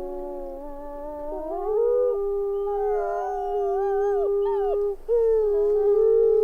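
Several wolves howling together: long, overlapping howls held at different pitches, some sliding down, with a brief gap about five seconds in.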